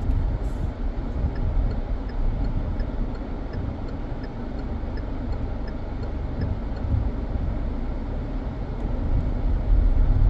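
Steady road and engine rumble heard from inside a moving car, with a faint regular ticking about twice a second for several seconds early on.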